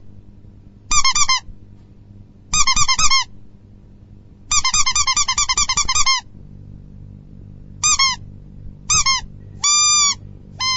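Comedy squeak sound effect: bursts of short, rapid, high squeaks, each dipping slightly in pitch. There are a few short bursts, a longer run in the middle, then single squeaks and a longer held squeak near the end, over a faint low hum.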